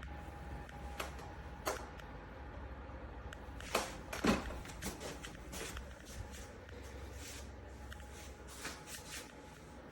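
Irregular clicks and knocks of objects being handled, over a steady low hum; the loudest knocks come a little before the middle.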